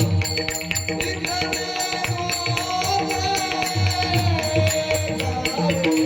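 A Marathi song with a singer holding a long, wavering note over steady percussion and a held drone.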